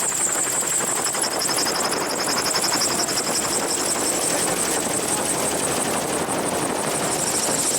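MTO Sport gyroplane running steadily in flight: its engine, propeller and rotor make a fast, even pulsing, with wind rushing over an open-cockpit microphone.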